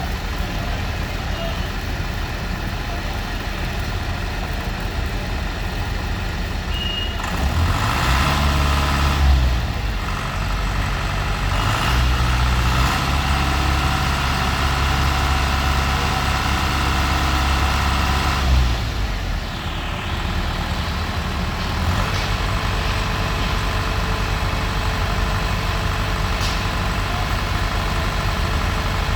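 Heavy diesel truck engine running over a steady traffic rumble. It revs up about eight seconds in, holds higher for about ten seconds, then drops back.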